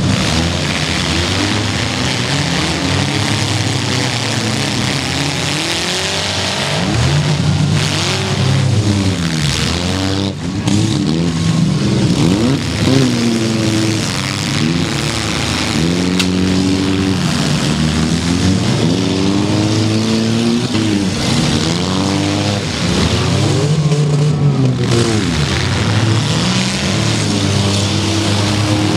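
Several demolition derby cars' engines revving up and down at once, their pitches rising and falling over one another, with a few sharp bangs.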